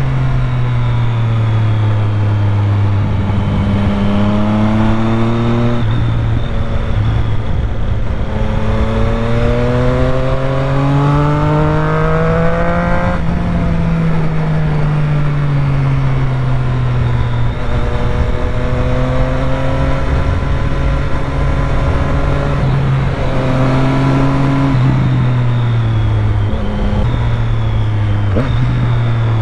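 Triumph Street Triple 765's three-cylinder engine under way. It revs up twice, with the pitch climbing each time, and drops suddenly after the second climb about halfway through. The pitch then falls off slowly as the throttle eases, and the engine holds steadier revs for the rest of the stretch.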